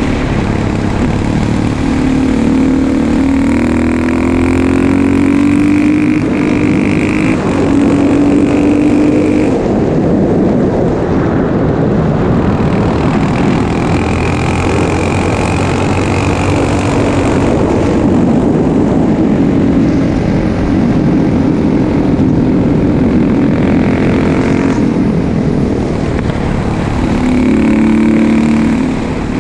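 2004 KTM 640 LC4 single-cylinder four-stroke engine running loud through an exhaust fitted with a dB killer, its engine speed rising and falling several times.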